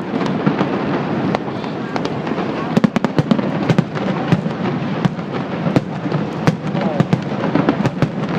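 New Year fireworks display going off: a dense, continuous crackle of bursting shells, with many sharp bangs over a steady rumble.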